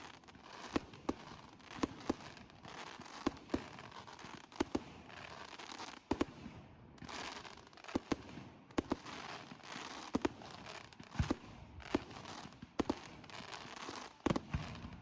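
Bonfire Night fireworks going off: a string of sharp bangs at irregular intervals, more than one a second, over a continuous crackling hiss.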